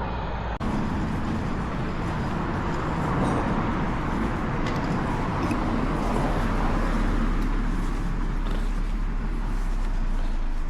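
Steady road traffic noise: motor vehicles running close by, with a heavy low rumble building about halfway through.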